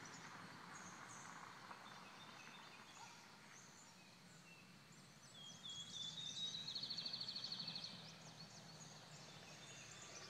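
Quiet outdoor background with scattered short bird chirps. About five seconds in, a songbird sings a phrase of rising notes that runs into a fast, even trill lasting about two seconds. The trill is the loudest sound.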